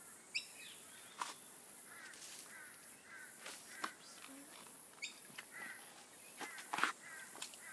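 Creek-side bush ambience: a high buzz pulsing on and off about once a second, with repeated short bird calls and a few sharp knocks, the loudest near the end.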